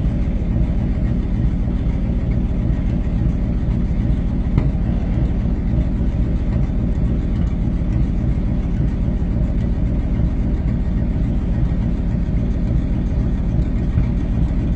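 A vehicle engine running steadily at idle, a low-pitched, even sound with no revving.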